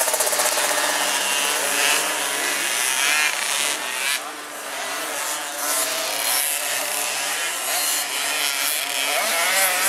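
Several 50 cc two-stroke motocross bikes racing, their engines revving up and down as they take the track.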